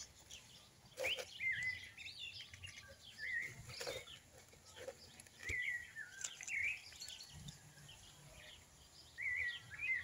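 Birds chirping again and again, short quick calls that bend up and down in pitch, over a few soft brushes and knocks of potting soil being scooped and dropped by hand.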